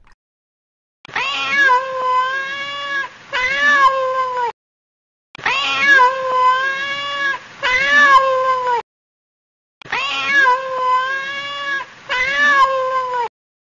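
Kitten meowing: a long meow followed at once by a shorter one, the same pair repeated identically three times with a second or so of silence between.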